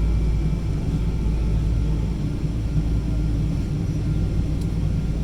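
Steady low rumble inside the economy cabin of a Boeing 777-200ER as it arrives at the gate, its engines running at low thrust.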